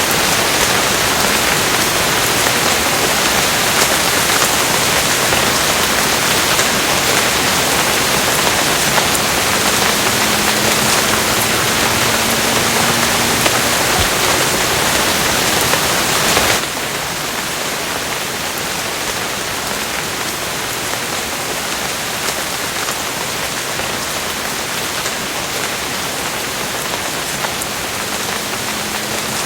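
Steady heavy rain pattering on a surface, a dense even hiss with fine drop specks. A little past halfway it abruptly drops to a softer, steady rain.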